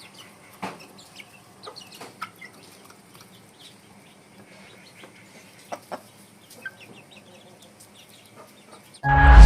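Aseel chickens clucking faintly, with scattered short calls over quiet farmyard background. Loud music starts abruptly near the end.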